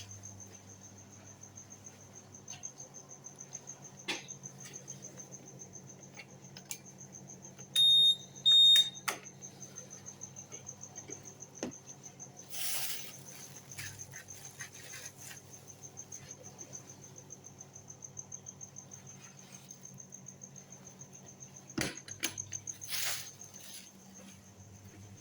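A cricket chirping as a steady, fast, high trill over a low hum. About eight seconds in come two short, loud electronic beeps, and a few scattered clicks and brief rustles follow.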